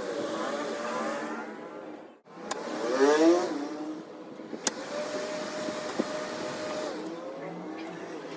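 Small electric motor whining: it cuts out briefly about two seconds in, spins back up with a quickly rising whine, then holds a steady pitch before easing down near the end. A few sharp clicks are heard along the way.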